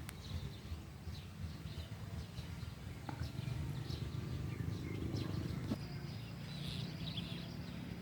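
Outdoor ambience: small birds chirping here and there over a low, steady rumble.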